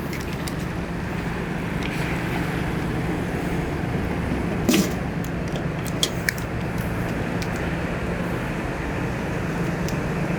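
Steady mechanical hum with a constant low drone, broken by a brief knock about halfway through and a couple of faint clicks.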